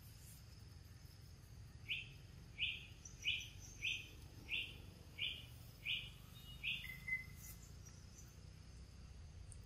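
A bird calling a run of eight short, evenly spaced notes, about one and a half a second, starting about two seconds in and stopping around seven seconds.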